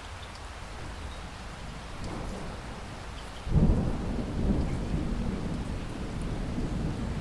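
Steady rain falling. About halfway through, a sudden low rumble comes in, much louder than the rain, and keeps rolling on to the end.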